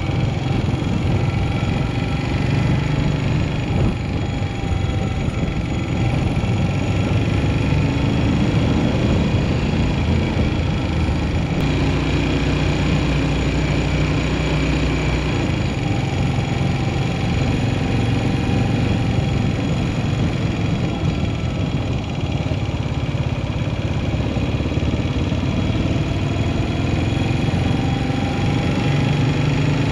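Yamaha SR400's air-cooled single-cylinder engine running under way, its note rising and falling with throttle and gear changes, over steady road and wind noise.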